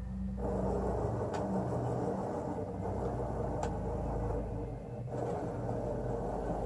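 Motors of the Excalibur Mirage chess computer's robotic mechanism humming steadily as they drive the electromagnetic head beneath the board, with a short pause about five seconds in and a couple of faint clicks.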